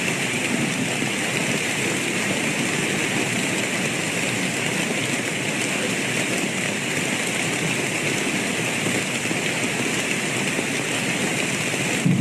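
Steady, heavy rainfall, an even hiss without thunder.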